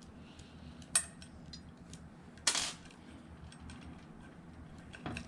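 Small metal handling noises from work on a ceiling fan's motor wiring: a sharp click about a second in, a short scrape a little after two seconds, and faint ticks between.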